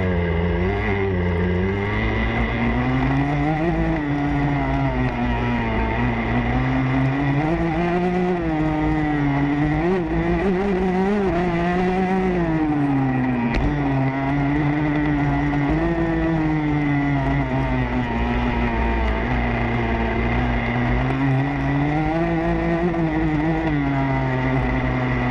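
Motocross bike engine heard from onboard, revving up and dropping back again and again as the rider opens and closes the throttle around the track.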